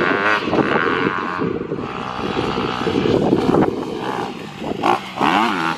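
Dirt bike engine revving hard, its pitch rising and falling with the throttle, the sound of a motocross bike being ridden at the jump.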